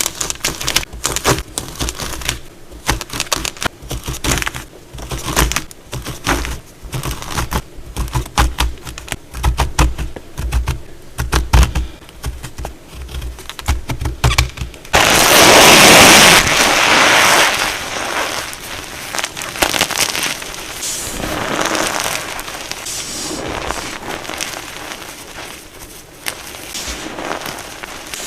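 A block of plain gym chalk being cut and crushed: about fifteen seconds of sharp crunching crackles and snaps, then a loud dense crumble that eases into softer, continuous crumbling.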